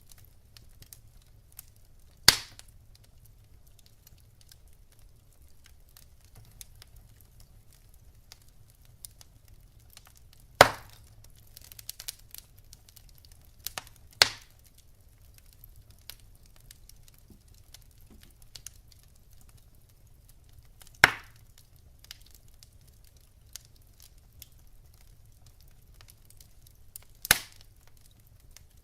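Wood fire burning in a fireplace: faint continuous crackling of the logs, broken by five sharp loud pops spread a few seconds apart.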